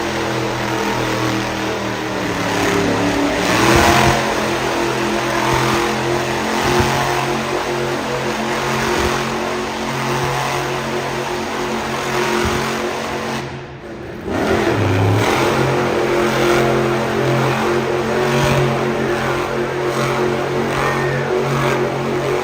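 Monster truck engine running loud and revving, with steady engine tones under a broad roar of noise. The sound drops away briefly about two-thirds of the way through, then comes back at full level.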